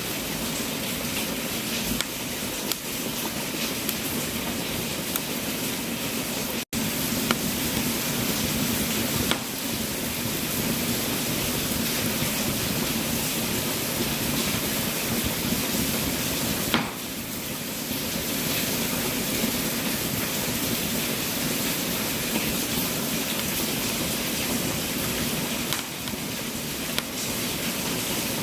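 Wood fire burning in a fireplace: a steady hiss with occasional sharp crackles and pops.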